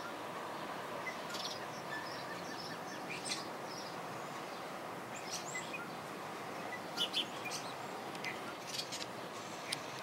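Birds chirping: short, scattered high calls over a steady background hum, with a quick pair of loud chirps about seven seconds in.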